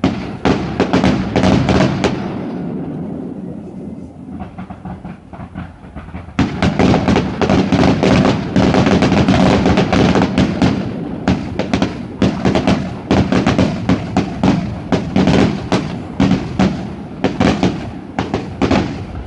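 Fireworks going off: a quick run of bangs and crackles that thins out for a few seconds, then a dense, continuous barrage of bangs from about six seconds in.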